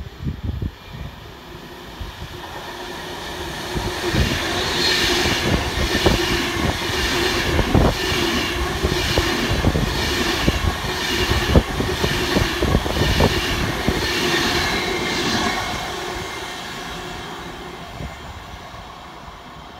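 Avanti West Coast Class 390 Pendolino electric train running through the station without stopping. The sound swells as it approaches, then the wheels clatter in a rhythm over the rail joints with a steady hum while the coaches pass close by, and it fades as the train pulls away.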